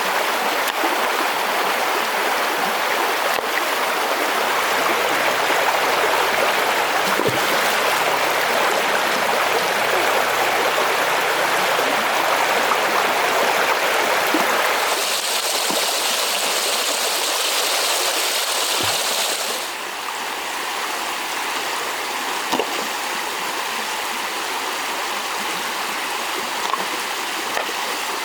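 Steady rush of flowing river water with a few faint clicks. An extra high hiss joins it about halfway through, and the sound drops slightly in level a few seconds later.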